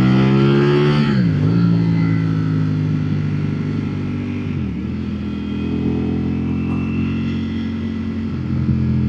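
Ducati naked superbike engine running under way, heard from the rider's seat. The revs dip briefly and recover twice, about a second in and again near the halfway point, like quick gear changes, with steady running between.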